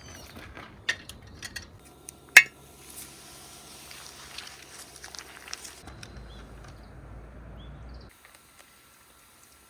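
Camp gear being handled: scattered clinks and knocks, with one sharp loud click about two and a half seconds in. About eight seconds in, the sound cuts off to quiet outdoor background.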